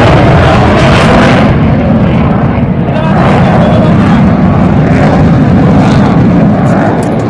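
Loud jet engine noise of a military fighter jet flying a display pass, a dense steady rumble that eases off slightly near the end.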